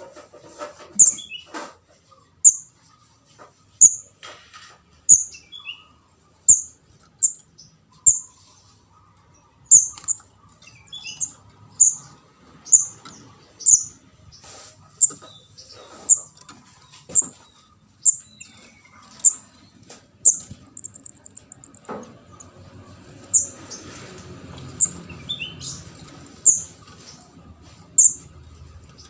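Juvenile kemade jawa ('ndas abang') begging calls, used as a bird-trapping lure: short, very high-pitched chirps repeated at an uneven pace, about one a second, some louder than others.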